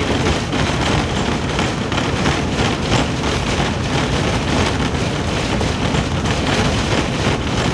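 Diesel truck on the move: the engine running steadily under a dense, even rush of road noise.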